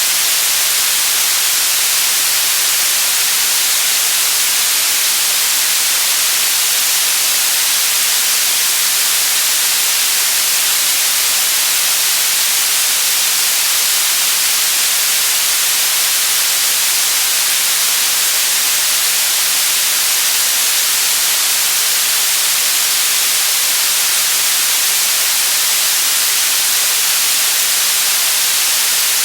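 Steady white noise, a constant even hiss that is brightest in the upper frequencies and does not change.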